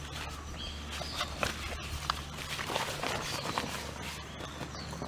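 Irregular dry crunching and snapping of twigs and leaves, a quick, uneven run of sharp clicks over a steady low hum.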